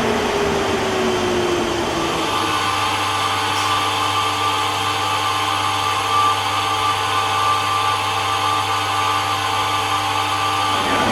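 A machine running with a steady hum and hiss. In the first two seconds a tone slides downward, like a motor settling to a steady speed, then the hum holds steady.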